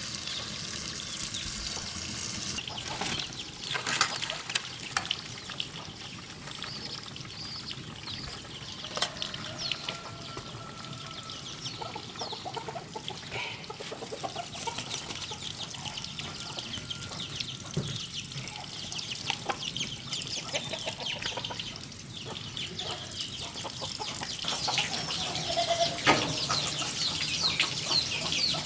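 Chickens clucking and calling on and off, with a few sharp knocks.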